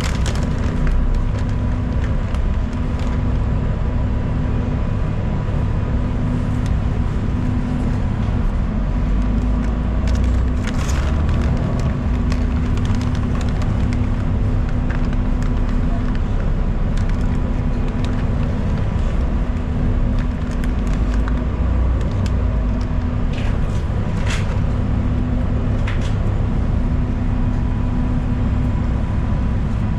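Inside a moving city transit bus: a steady drone of engine and road noise with a constant hum, and a few brief rattles and clicks.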